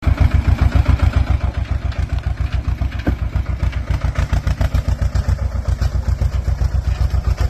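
Tractor's diesel engine running with a steady, even low chug.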